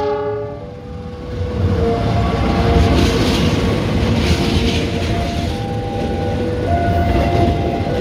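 Diesel locomotive and its passenger coaches passing close by, with engine rumble and the rolling noise of wheels on rails. The tail of the train horn ends in the first half second, and a few thin high tones come and go as the coaches roll past.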